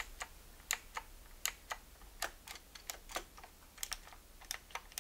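Keys pressed at an irregular pace on an old Highscreen keyboard, a budget clone of the IBM Model M, each keystroke a sharp click.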